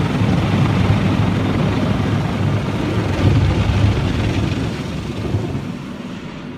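Automatic car wash working over the car, heard from inside the cabin: a steady rushing rumble of water and machinery on the bodywork that fades near the end as the rinse finishes.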